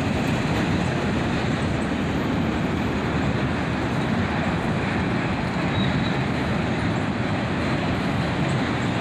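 Autorack freight cars rolling past on the main line as the train accelerates: a steady rumble and rush of steel wheels on the rails.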